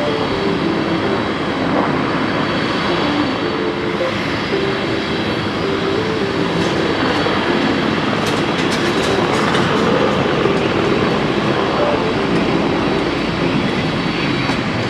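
Steady, loud noise of jet airliner engines.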